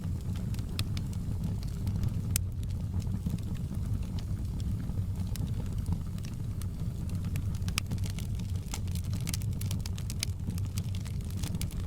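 Wood fire in a fireplace crackling: irregular sharp pops and snaps, thicker toward the end, over a steady low rumble of the burning.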